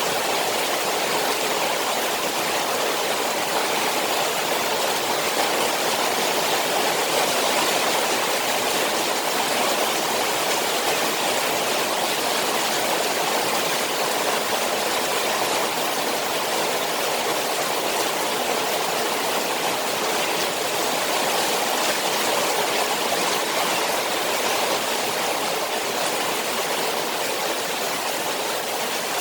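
Koi pond in the rain: a steady, even rush of water falling into the pond, with no breaks or separate splashes standing out.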